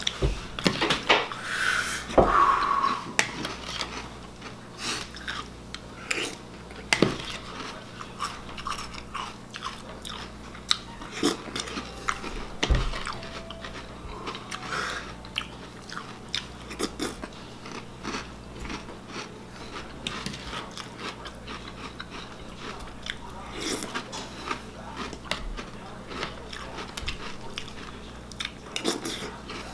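A person chewing mouthfuls of crunchy cereal in milk, spoonful after spoonful, with many short, sharp crunches.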